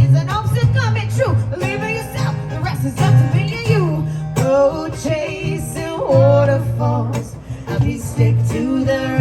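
Live music: a song sung over guitar, with a steady bass line and beat underneath.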